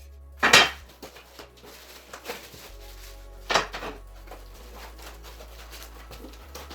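Two sharp knocks, about three seconds apart, with lighter clicks between, as a workshop tool is handled and set down, over soft background music.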